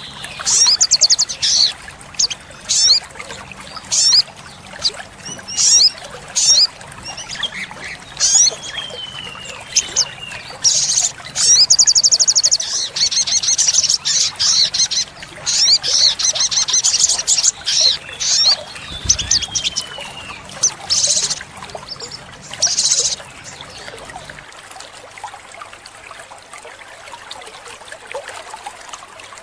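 Olive-backed sunbird singing: a string of sharp, high chirps and fast buzzy trills, with a few falling slurred whistles. The song stops about three-quarters of the way through.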